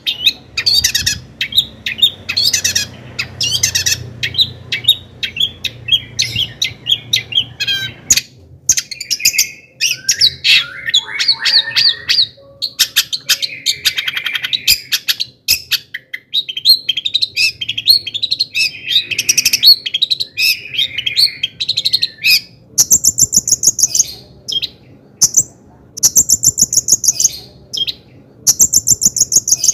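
Long-tailed shrike singing a fast, varied song of harsh chatters, trills and mimicked phrases, with quick runs of repeated high-pitched notes near the end.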